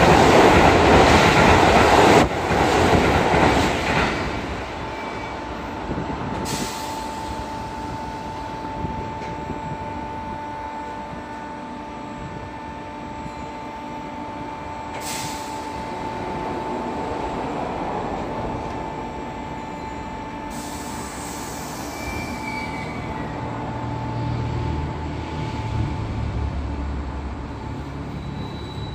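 A Sanyo Electric Railway train passing through the station at speed, its loud rush dying away within about four seconds. Then the quieter steady hum of a waiting Sanyo 3000-series train with a thin high tone, and near the end a low rumble as it pulls away.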